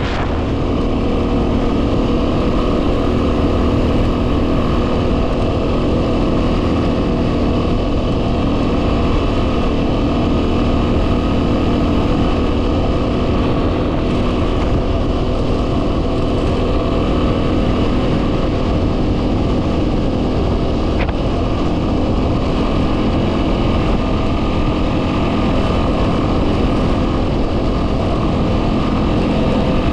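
A 2010 Yamaha WR250R's stock single-cylinder four-stroke engine running steadily while riding, under heavy wind noise on the microphone.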